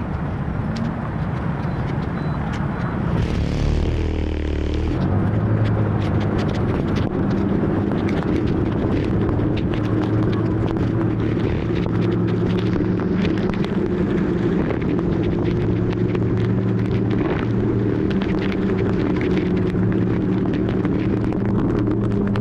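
Motor scooter engine running under way, a steady hum that edges slightly up in pitch, over continuous road and traffic noise.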